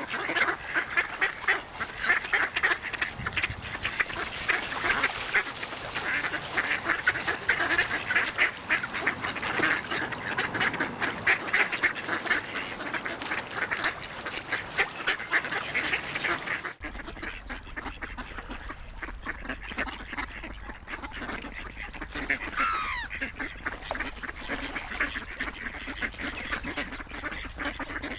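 A flock of ducks quacking and calling over one another, many short calls in quick succession. About two-thirds of the way through the sound changes abruptly to sparser duck calls over a low steady rumble, with one quick falling whistle.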